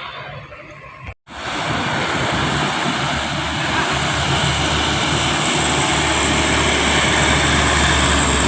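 Heavy truck's diesel engine running hard under load, a loud steady drone with a low hum that builds slightly. The sound cuts out briefly about a second in.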